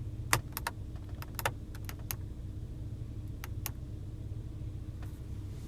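Cabin control buttons of a Porsche Cayenne S clicking as they are pressed and released, about ten sharp clicks mostly in quick pairs, over a steady low hum.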